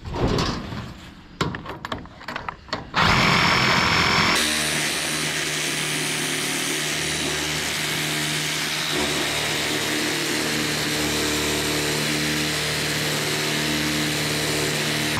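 Scattered clanks of handling metal, then a power tool starts about three seconds in and runs steadily, its note settling lower a second later as it cuts out a brass fitting for scrap.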